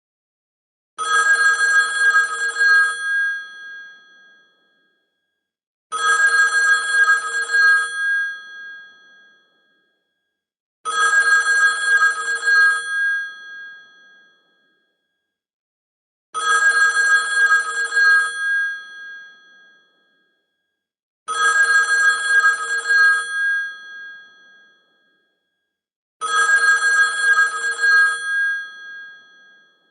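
Telephone ringing: a rapid trilling ring about two seconds long, each ending in a short fading tail, repeated six times about every five seconds.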